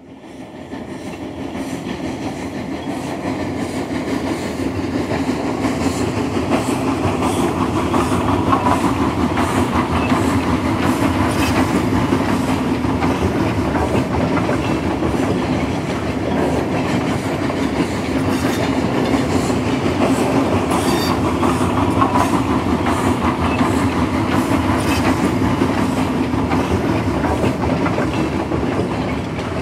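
A train rolling steadily on rails: a continuous rumble with a rhythmic clickety-clack of wheels over rail joints. It fades in over the first few seconds.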